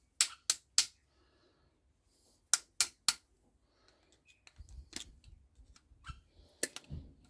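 Sharp snapping clicks in two quick runs of three, about a third of a second apart, followed by lighter scattered clicks and low knocks of hand work on scrap microwave parts.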